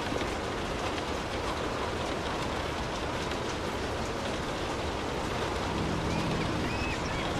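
Steady rain falling, an even hiss of drops on surfaces with no distinct rhythm.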